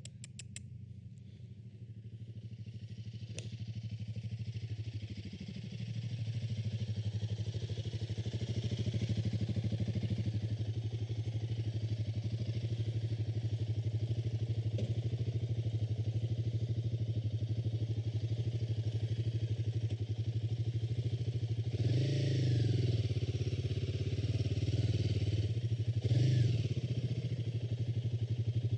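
Royal Enfield Himalayan 452's single-cylinder engine running steadily. Its sound builds over the first few seconds, and it surges briefly twice near the end.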